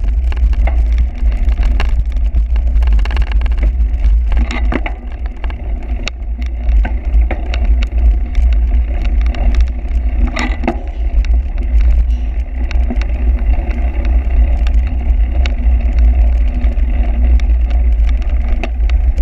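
Wind buffeting the microphone in a heavy, steady low rumble, with frequent irregular clicks and rattles over it.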